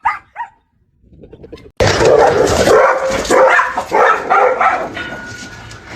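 A few short dog whines at the start, then after a pause a sudden bout of loud dog barking that goes on for about four seconds.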